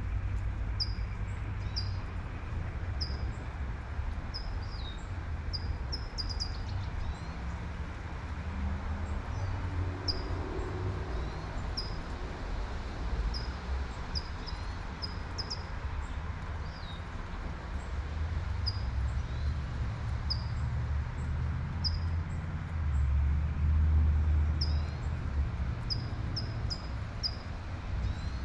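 Light steady rain hiss with a bird chirping over it, short high chirps about a second apart. Underneath, a low traffic rumble swells as a car passes near the end.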